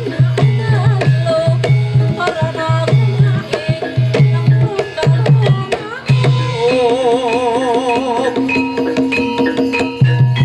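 Javanese gamelan music for a kuda kepang trance dance, led by kendang hand drums playing quick, repeated deep strokes and sharp slaps over ringing metallophones. About six seconds in, the deep drumming drops out and a wavering, held melody line comes in over steady ringing tones, and the deep strokes return near the end.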